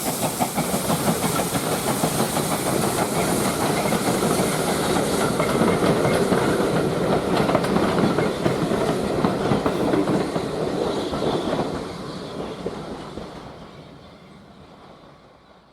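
Steam train passing, its wheels and wagons clattering over the rails. The sound fades away over the last few seconds.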